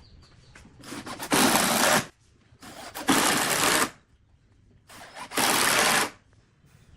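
A power tool run in three short bursts about two seconds apart, each lasting under a second and building up briefly before it reaches full speed.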